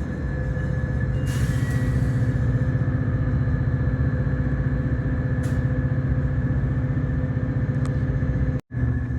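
Diesel locomotive engine running steadily with a fast, even throb and a constant whine. The sound cuts out for a split second near the end.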